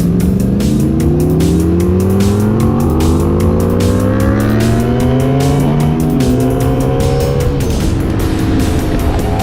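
Honda Magna V65's V4 engine through its Kerker 4-into-1 exhaust, accelerating hard with a steadily rising pitch for about seven seconds, then dropping off as the throttle is eased near the end. Wind buffets the microphone throughout.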